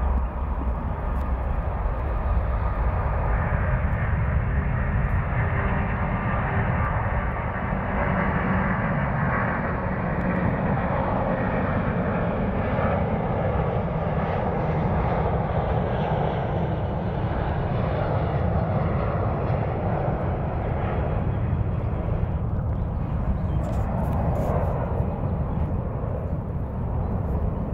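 Singapore Airlines Airbus A380's four Rolls-Royce Trent 900 turbofans at takeoff thrust: a loud, steady jet rumble and noise that swells and shifts slowly as the airliner takes off.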